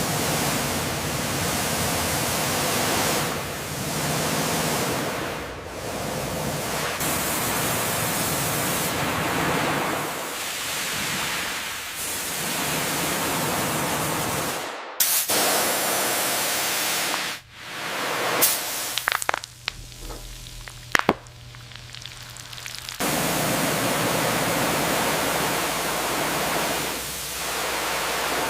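A loud, steady hiss of noise, broken by short cuts every few seconds. About two-thirds of the way through it drops away for several seconds, leaving a few sharp clicks, then the hiss comes back.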